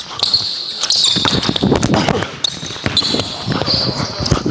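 A basketball being dribbled on a hardwood indoor court during one-on-one play, repeated bounces, with sneakers squeaking on the floor about a second in.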